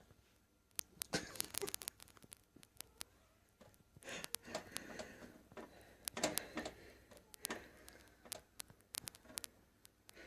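Water dripping and pattering in a kitchen sink from a dripping tap: many irregular small clicks and taps, with a few short splashy scuffles where a kitten paws at the water.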